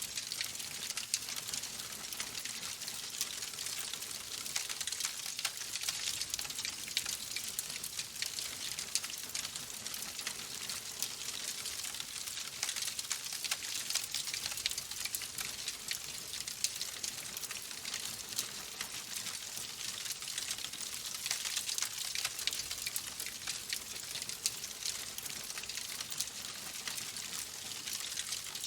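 Wood logs burning in a fireplace: a steady hiss with dense, irregular crackling throughout.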